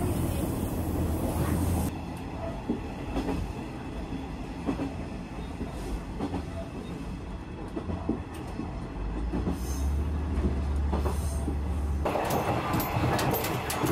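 Diesel railcar running, heard inside the carriage: a steady low engine drone with faint clicks of the wheels over rail joints, becoming louder and fuller near the end.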